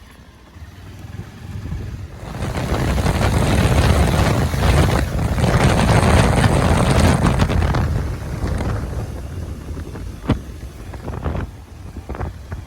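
Wind rushing over the microphone with vehicle noise, as from a moving motorcycle. It swells about two seconds in, then eases off, with a few sharp knocks near the end.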